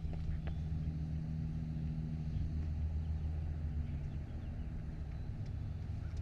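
A motor vehicle's engine running with a steady low hum, easing slightly about two-thirds of the way through.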